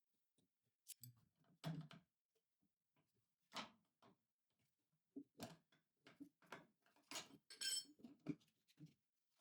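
Scattered metal clinks and knocks from hand tools and steel parts being handled, about a dozen separate strikes, one of them ringing briefly just before the last second or so.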